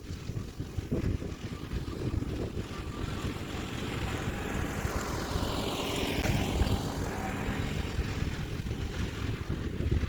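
Wind buffeting the microphone over the steady run of a Kioti DK4710SE tractor's diesel engine as it pulls a landscape rake. Around the middle, a hissy whoosh sweeps down in pitch and back up again.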